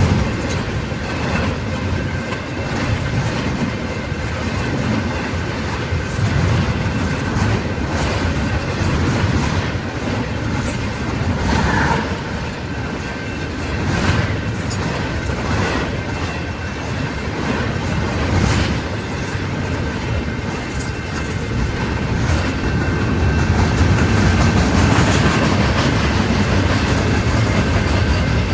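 Train rolling along the track, its wheels clicking over the rail joints with a steady rumble.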